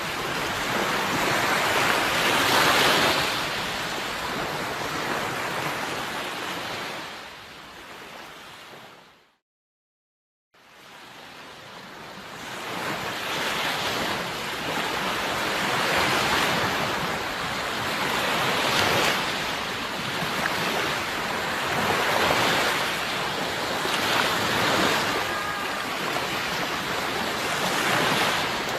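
Sea waves washing onto the shore, the surf swelling and ebbing every few seconds. About seven seconds in it fades out to a second of silence, then fades back in and carries on.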